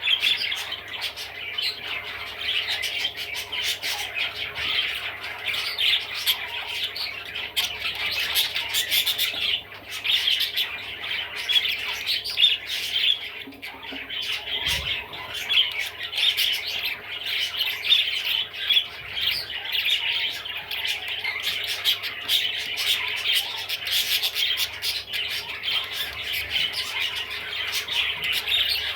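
Budgerigar chattering and warbling without a break, a dense run of short chirps, squawks and clicks.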